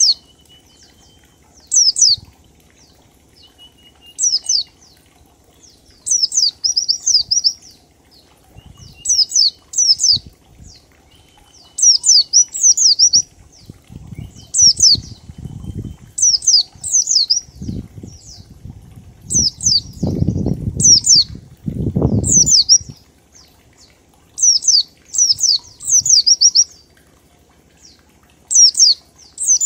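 White-eye (pleci) singing in the 'ngalas' style: short high whistles sweeping downward, in quick groups of two to four every second or two, some groups ending in a brief trill. A low rumble sounds under the song for several seconds in the middle.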